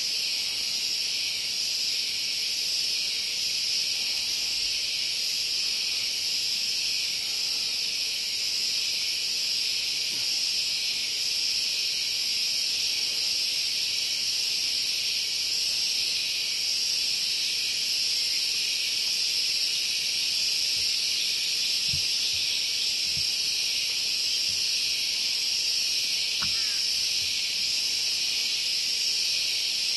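Steady, unbroken high-pitched drone of an insect chorus, with a few faint low knocks late on.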